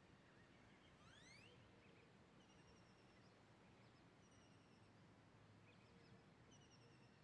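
Near silence with faint bird calls: a few quick rising chirps about a second in, then short high whistles every couple of seconds, over a low steady hum.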